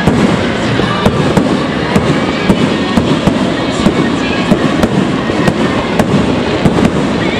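A fireworks display: shells bursting in quick succession, a sharp bang every half second or so, over a continuous crackling rumble.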